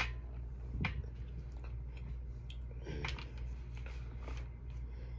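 A person chewing a mouthful of baked chicken and rice, with wet mouth noises and a few sharp clicks, the loudest right at the start and another about a second in, over a steady low hum.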